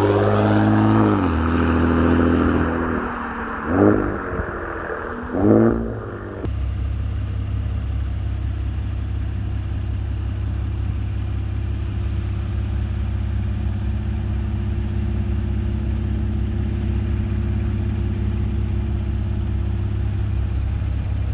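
Infiniti Q50 Red Sport 400's twin-turbo 3.0-litre V6 (VR30), with catless downpipes and a Motordyne catback exhaust, revving down from a rev, blipped sharply twice, then settling into a steady low idle.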